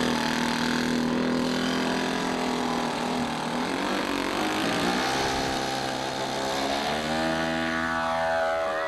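Radio-controlled model airplane engine buzzing steadily in flight, its pitch shifting near the end as the plane turns or passes.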